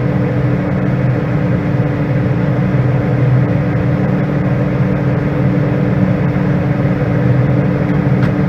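Combine harvester running steadily, heard from inside the cab, a constant drone with a low hum, while its unloading auger is engaged.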